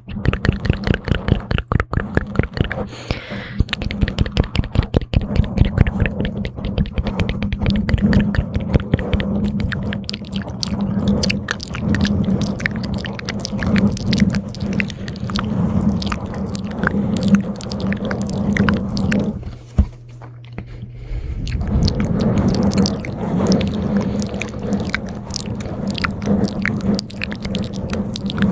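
Close-miked ASMR mouth sounds: rapid wet clicks, smacks and tongue noises in a dense, uneven stream, pausing briefly about twenty seconds in. A steady low hum runs beneath.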